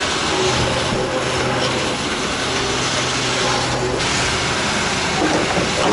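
Motorcycle engine running under a dense rushing noise, with a steady low hum that drops out about four seconds in.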